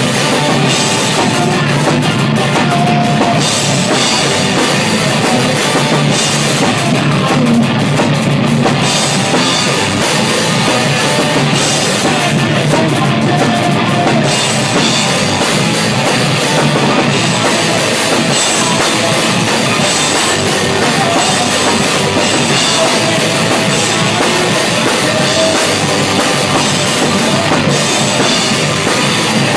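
Rock band playing loud and without a break, the drum kit up front, recorded raw at the kit.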